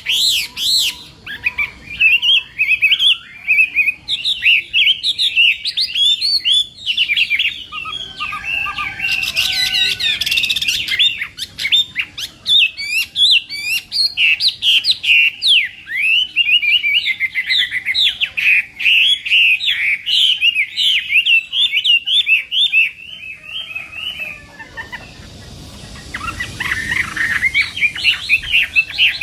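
Chinese hwamei singing a long, fast run of varied whistled notes, breaking off for a couple of seconds near the end and then starting again.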